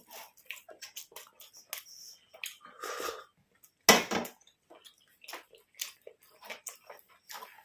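Close-miked eating sounds: people chewing food, with irregular small wet clicks and smacks, and a sharper knock about four seconds in.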